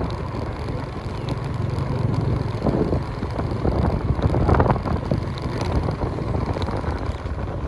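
A boat's motor running steadily with a low rumble, with wind buffeting the microphone.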